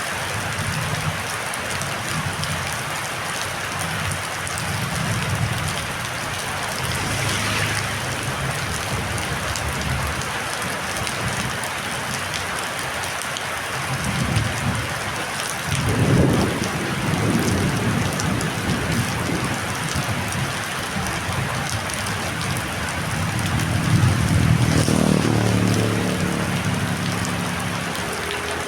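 Heavy rain pouring steadily in a storm. Low rumbles swell up about halfway through and again near the end.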